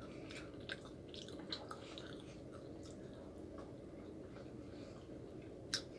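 Faint chewing and mouth sounds: soft, wet clicks and smacks scattered throughout, with one sharper click near the end.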